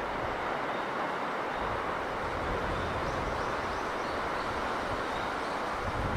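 Steady sea-breeze wind with the rush of the sea, an even noise with a low rumble underneath. A few faint, short high chirps come in about halfway through.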